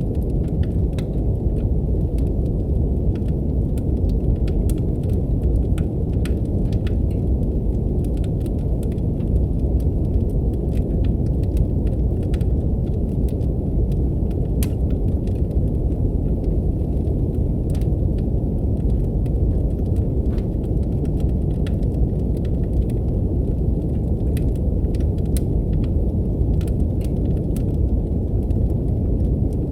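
Steady brown noise, a deep even rumbling hiss, with a wood fire crackling over it in scattered irregular pops and snaps.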